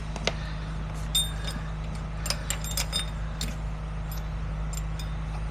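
Scattered light metallic clinks and jingles, like keys or chain links, over the steady low hum of an idling truck engine.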